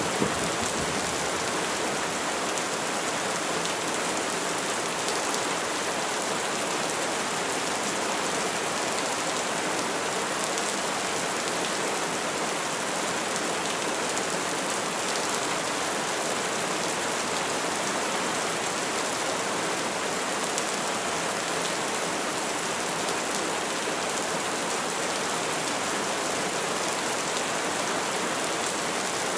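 Rain falling steadily, an even hiss of drops on surfaces with no change in strength.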